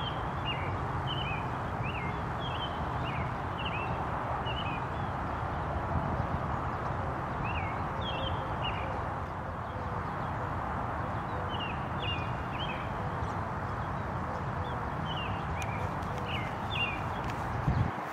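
Small birds chirping in short clusters of quick high notes every few seconds, over a steady outdoor background noise. A single thump comes just before the end.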